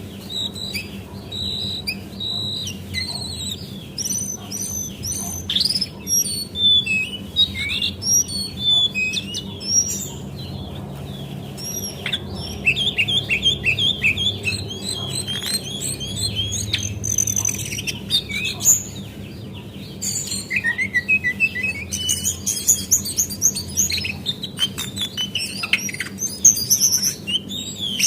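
Lesser shortwing (cingcoang coklat) singing: a long, unbroken run of fast, varied chirps and whistles, with a faint steady hum beneath it.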